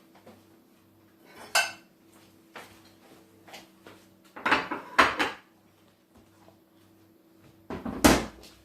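Dishes and cutlery clattering as kitchenware is handled and put down: a single ringing clink about a second and a half in, a louder run of clatters around the middle, and the loudest clatter near the end, over a faint steady hum.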